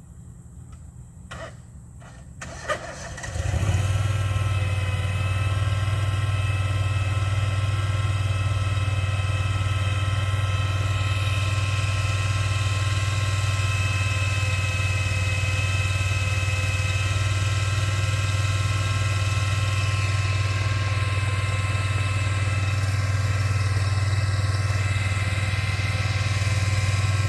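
An engine starts after a few clicks about three and a half seconds in, then runs steadily at one constant speed.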